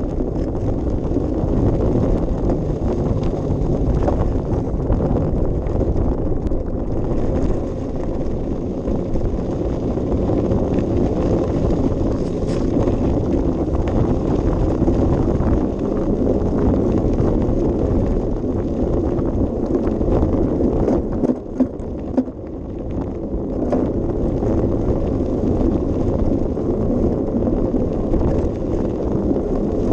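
Wind rushing over a GoPro's microphone on a moving bicycle, mixed with the rumble of the ride. It dips briefly about two-thirds of the way through.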